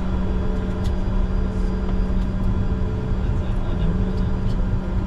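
Steady cockpit noise of a Bombardier Challenger 605 business jet taxiing: a constant hum from its twin turbofan engines and air systems over a low rumble, with a few faint clicks.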